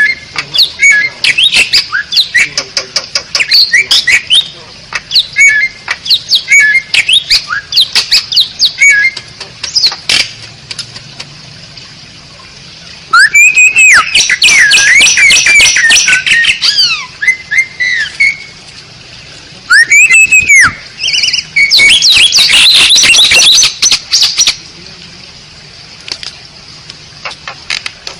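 Asian pied starling (jalak suren) singing: a varied run of short whistles and chirps, then two loud stretches of rapid harsh notes and looping whistles past the middle.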